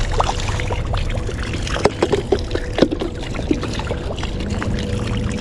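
Water being poured and scooped into a container for a caught fish, with irregular splashes and drips.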